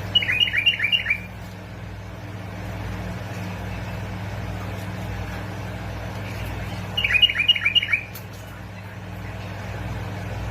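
Bulbul song: two short phrases of about five quick notes each, one at the start and one about seven seconds later, over a steady low hum.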